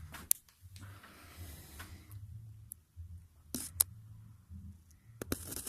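Faint rustling handling noise with a few sharp clicks, about a third of a second in, twice around three and a half seconds, and twice again near the end, over a low steady hum.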